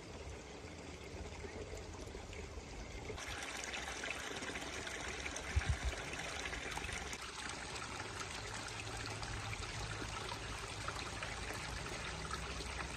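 Water running steadily, louder from about three seconds in, with a short low bump near the middle.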